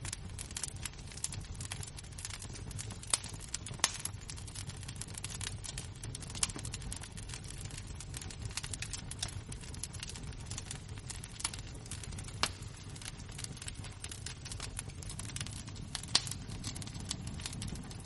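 Wood-fire embers crackling: a dense, irregular stream of small ticks and crackles, with several louder pops scattered through.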